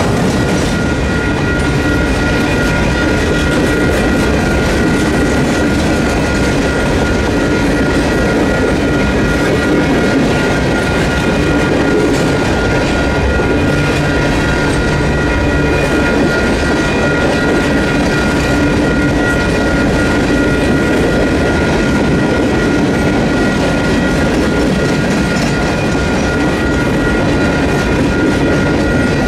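Freight train cars rolling past at a steady pace, wheels clattering over the rails. The crossing's WCH electronic warning bells keep ringing steadily over the rumble while the gates are down.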